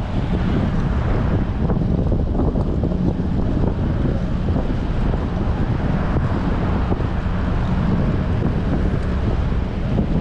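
Heavy wind buffeting an action camera's microphone on a moving bicycle: a steady, loud, low rumbling rush.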